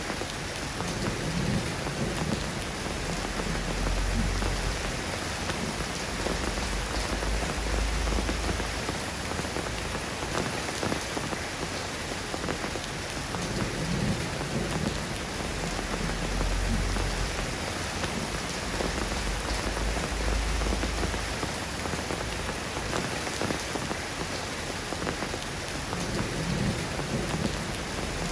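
Steady rain falling on a surface, an even patter, with low rumbles swelling in and out every few seconds underneath.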